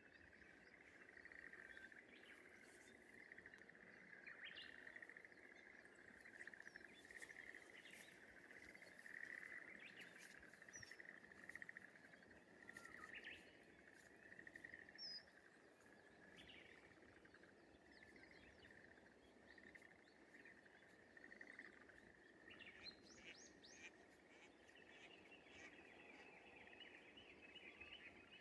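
Faint rice-paddy morning ambience: a steady, pulsing chorus of small animals at one high pitch, with scattered short bird chirps over it.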